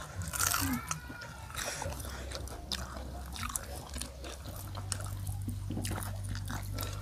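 Crunchy biting and chewing of crispy fried tofu puffs, heard close through clip-on microphones, with scattered sharp crunches.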